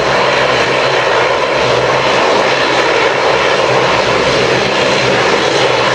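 Airliner jet engines running at a loud, steady roar during takeoff, with a faint thin whine above the roar.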